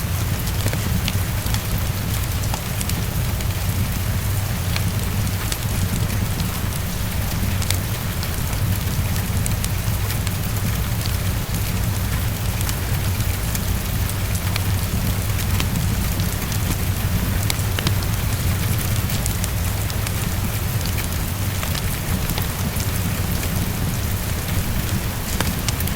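Heavy rain falling steadily against a window, a constant hiss over a low rumble, with many small scattered ticks that are likely the crackle of a fireplace.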